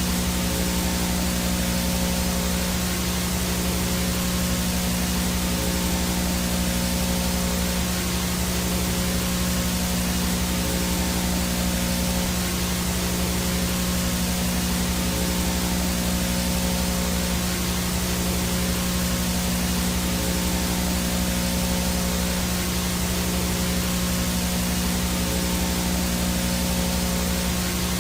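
VHS static from a blank, signal-less tape: a steady hiss with a low electrical hum and a few faint steady tones beneath it.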